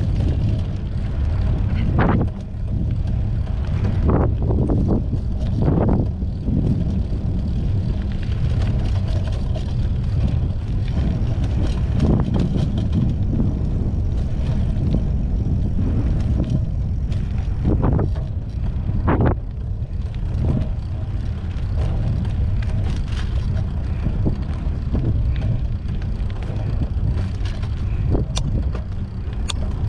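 Wind rumbling on the microphone while riding a mountain bike, with scattered knocks and rattles from the bike over the ground.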